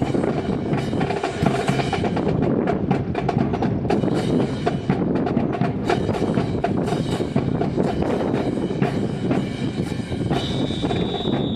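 Drill-team percussion playing a quick run of drum strokes and sharp wooden clacks. A steady high tone sounds from about ten seconds in.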